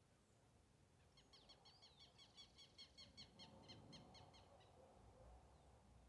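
Faint bird call: a rapid run of short, evenly repeated high chirps that starts about a second in and stops a little before the end.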